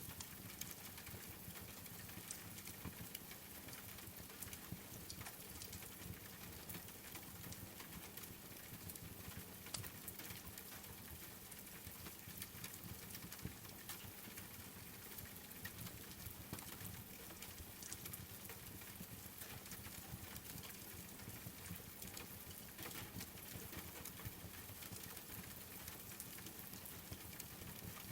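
Steady rain falling, mixed with a wood fire crackling in a fireplace, with scattered small pops throughout. The sound is fairly faint.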